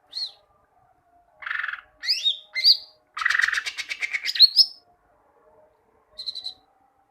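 A green leafbird (cucak ijo) singing in separate phrases: clear whistled slurs, a harsh buzzy phrase about a second and a half in, a fast rattling trill of about ten notes a second from about three to nearly five seconds in, and a brief chatter near the end.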